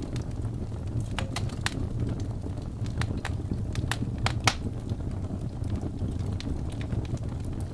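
Wood fire burning in a fireplace: a steady low rumble of flames with scattered sharp crackles and pops, the loudest pop about four and a half seconds in.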